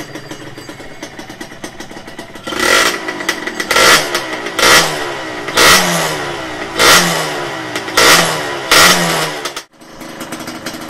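Kawasaki ZX150 two-stroke engine idling, then blipped about seven times in quick succession, each rev rising sharply and falling back. Near the end the sound breaks off briefly and the engine is heard idling again.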